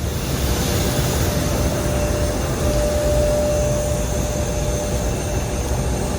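Steady loud roar of jet aircraft engines near an airliner, with a high steady whine rising out of it for a couple of seconds in the middle.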